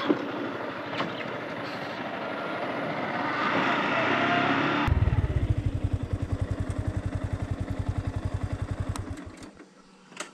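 Yamaha R15 motorcycle on the move, its single-cylinder engine mixed with road and wind noise. About halfway in the bike stops and the engine idles with a steady low pulse of about ten beats a second. Near the end the pulse slows and dies away as the engine is shut off.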